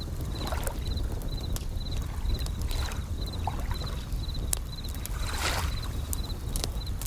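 Bell crickets (suzumushi) chirping in short pulsed trills about twice a second, over the sharp crackle and pops of a campfire. Waves wash in, with the largest swell about five seconds in, against a steady low rumble.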